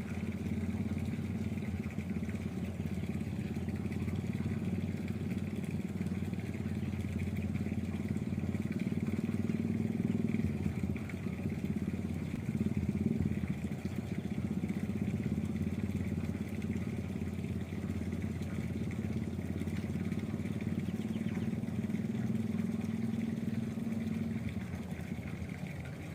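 A small engine running steadily: a continuous low drone with a faint high whine over it, holding the same pitch throughout.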